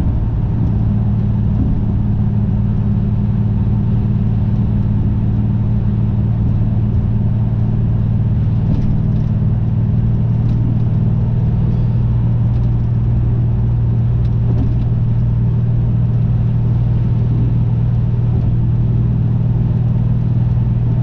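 The 410 cubic inch Magnum V8 stroker of a 1996 Dodge Ram 1500, fitted with a new exhaust, running at a steady pace: a constant low drone that holds one pitch throughout, with no revving.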